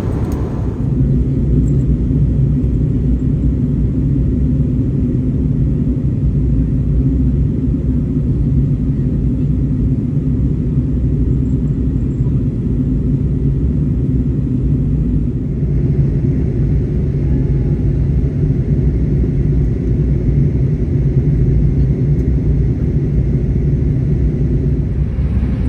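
Steady low rumble of cabin noise inside an Airbus A321neo airliner, from its engines and airflow.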